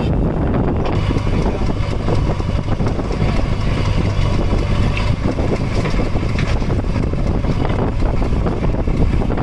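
A diesel engine running steadily, with wind buffeting the microphone.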